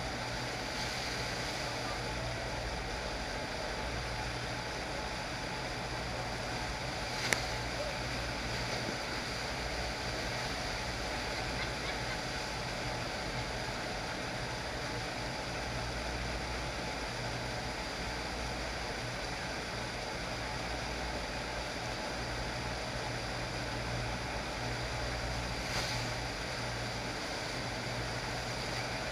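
FlowRider sheet-wave surf machine running: a steady rush of water pumped over the ride surface, over a low steady hum. A single sharp click about seven seconds in, and a fainter one near the end.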